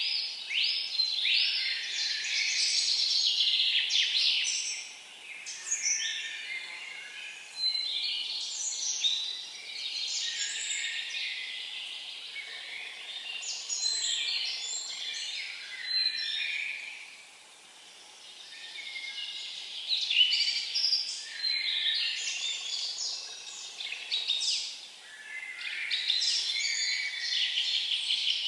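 Songbirds singing in the forest: busy, high-pitched phrases of chirps and short whistles lasting a few seconds each, broken by brief pauses, with several birds overlapping.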